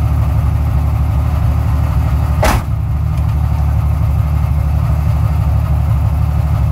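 Rally car's engine idling steadily, heard from inside the cabin, with one short sharp noise about two and a half seconds in.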